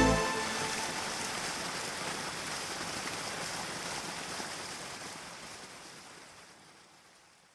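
A steady, even rushing noise like flowing water, fading out gradually to silence over the last few seconds.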